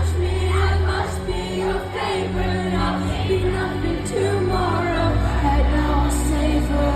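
Loud live concert music: a singer over a band, with a steady, heavy bass line.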